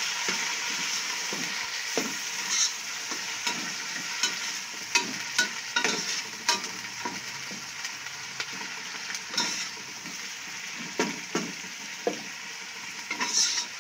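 Raw chicken cubes sizzling in hot oil with ginger-garlic paste in a pan, a steady frying hiss. A spoon stirs them, scraping and knocking against the pan at irregular moments.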